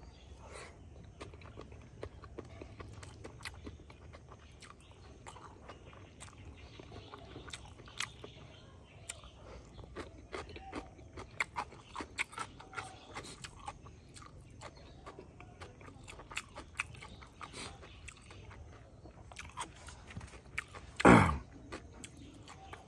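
Close-miked chewing of a mouthful of rice and silkworms, with scattered wet mouth clicks and smacks. One loud short thump near the end.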